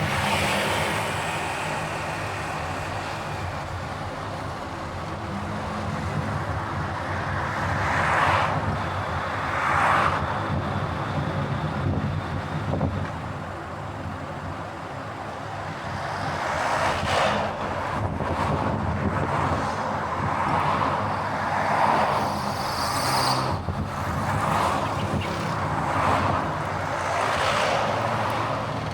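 A car driving on a highway: steady engine and tyre hum, with the road-noise rush rising and falling several times.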